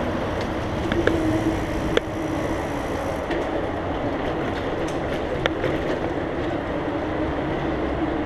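Mountain bike rolling along, giving a steady rumble and hiss of tyres and passing air, with a faint steady hum and a few sharp rattles or clicks from the bike about one, two and five and a half seconds in.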